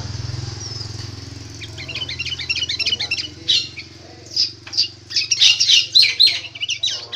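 A bulbul (kutilang) singing a cucak ijo (greater green leafbird) style song: a run of quick high chirps, then loud, varied whistled phrases of sharp up-and-down notes. A low steady hum fades under it in the first couple of seconds.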